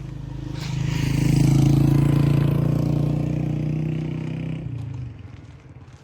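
A motor vehicle's engine running close by, swelling about a second in and then fading, dropping away sharply near the end, as a vehicle passes.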